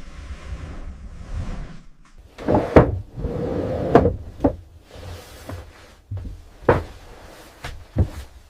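Construction work being handled: about two seconds of a rushing, scraping noise, then a run of sharp knocks and thuds with a louder stretch of noise among them, and a few separate knocks near the end.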